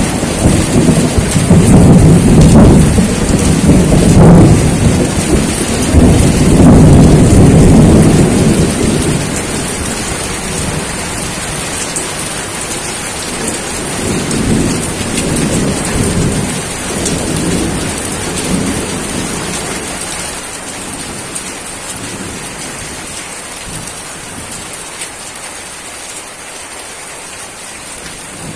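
Steady rain with rolling thunder. A long, loud rumble fills the first third and then fades, a weaker rumble follows midway, and after that only the rain hiss remains.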